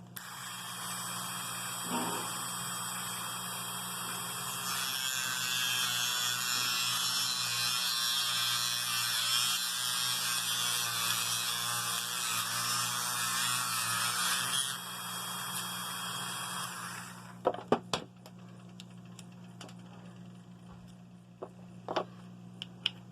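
Small high-speed power tool running for about seventeen seconds, louder and straining for about ten seconds in the middle as it cuts into a plastic caster wheel, then easing off and stopping. A few sharp clicks follow once it stops.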